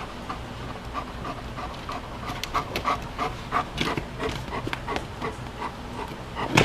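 Black Labrador panting rapidly and hard during an epileptic seizure, with scattered clicks and a sharp knock near the end.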